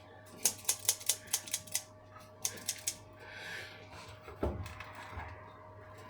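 Scissors snipping rapidly, trimming hair off a raw chicken: a quick run of about eight sharp snips, then a few more. A dull thump about four and a half seconds in.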